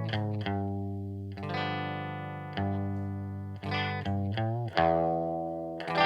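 Electric guitar played through an Aion FX Corona overdrive pedal, a DIY copy of the Boss OD-1. Several overdriven chords are struck and left to ring, then a quick run of notes with a bend about four and a half seconds in, and another held chord near the end.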